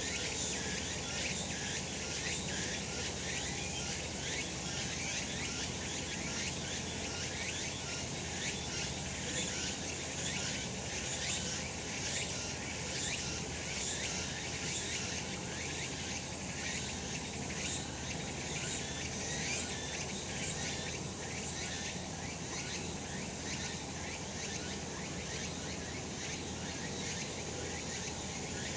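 Cicadas singing in a continuous, high-pitched, buzzing chorus that holds steady throughout.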